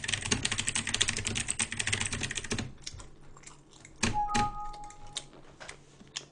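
Fast typing on a computer keyboard, a dense run of key clicks for about two and a half seconds, then a few scattered key presses. About four seconds in there is a knock and a short electronic beep on two pitches lasting about a second.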